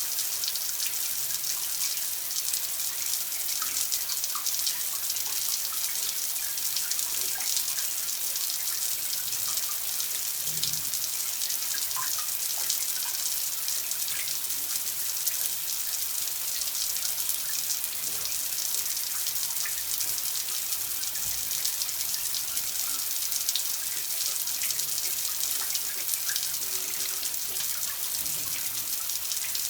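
Water running in a steady stream: a constant hiss, with scattered small plinks of drops and splashes.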